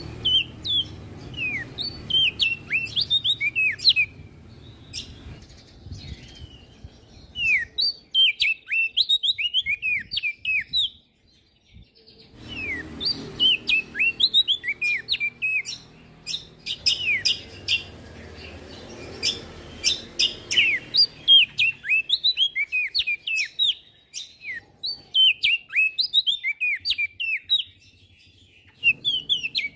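Prenjak daun songbird singing fast, jumbled runs of sharp, high chirps and downward-sweeping notes, in bursts broken by short pauses.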